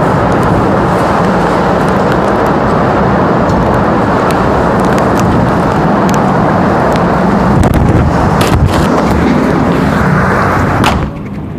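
Tornado-force wind roaring and blasting the microphone, with a few sharp knocks, typical of flying debris striking, near the end. The roar cuts off suddenly shortly before the end.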